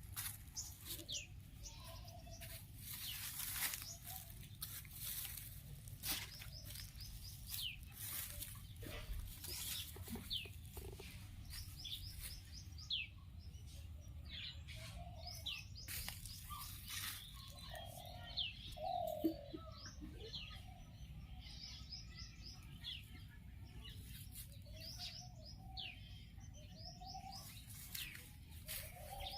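Small birds chirping throughout in many short, quick, falling chirps, over a steady low rumble.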